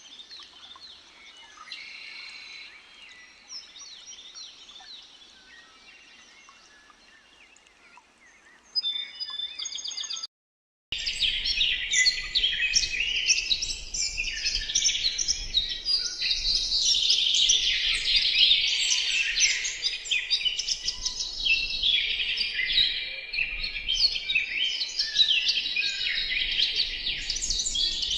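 Faint scattered bird calls, then, after a brief dropout about ten seconds in, a loud, dense chorus of many birds chirping.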